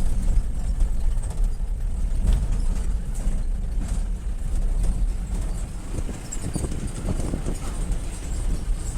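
Vehicle travelling along a road, heard as a steady low rumble with wind buffeting the microphone and scattered knocks and rattles.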